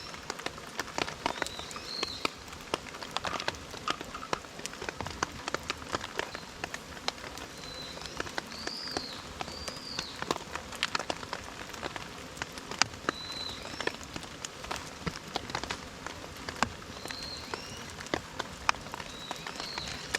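Rain falling, with many separate drops striking close by in an irregular patter of sharp ticks over a steady hiss. A bird gives short, high, arched chirps several times.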